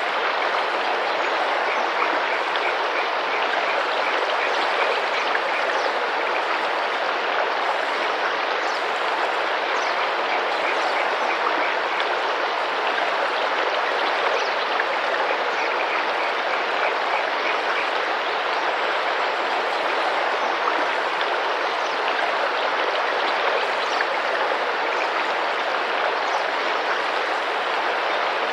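Tropical rainforest river, water running and splashing steadily. Over it, a few times, comes a faint run of rapid high chirps.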